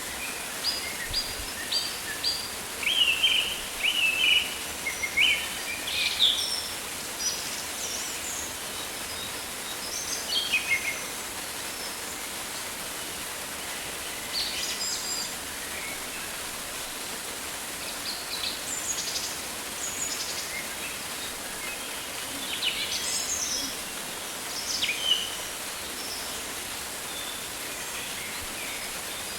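Rainforest ambience: a steady hiss of falling water, with birds calling in short high chirps and quick falling whistles in scattered bursts.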